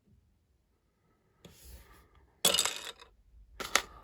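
Small plastic Lego pieces being handled: a brief rustle, then a loud clatter of clicks about two and a half seconds in, and a few sharper clicks near the end.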